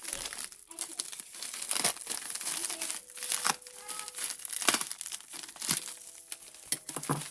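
Packaging being handled and unwrapped: irregular crinkling and rustling of paper or plastic wrap, with some tearing.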